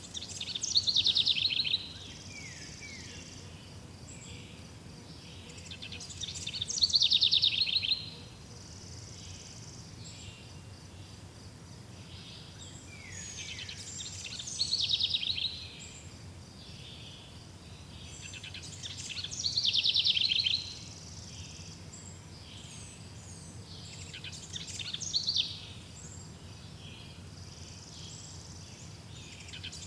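A songbird singing the same short, fast phrase over and over, about every five to six seconds, each phrase lasting a second or two. Between phrases there is a faint steady background of other birds and insects.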